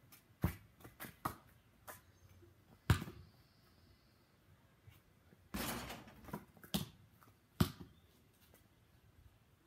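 A basketball bouncing on a concrete driveway and hitting the hoop's rim and backboard during repeated shots: a string of separate sharp thuds roughly a second apart, with one longer sound just past halfway.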